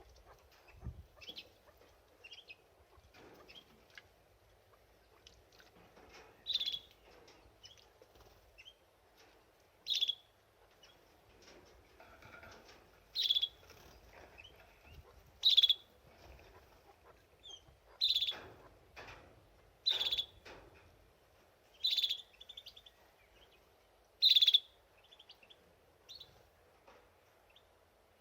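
Canary giving short, sharp chirps, about eight loud ones spaced two to three seconds apart, with softer twittering in between.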